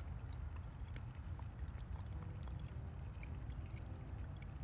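Water trickling and pouring: a steady low rumble with many small scattered drips.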